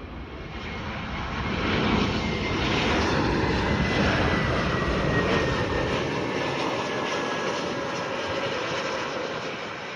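United Airlines Airbus A321 jet passing on its approach to land: the engine noise swells to a peak about two seconds in and then slowly fades, with a faint high whine sliding down in pitch as it goes by.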